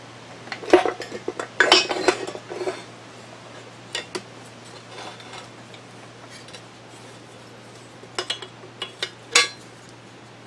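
Small metal parts and hand tools clinking and rattling on a workbench while a drill grinder motor is taken apart: a busy run of clinks in the first three seconds, one more around four seconds, and a few sharper ones near the end.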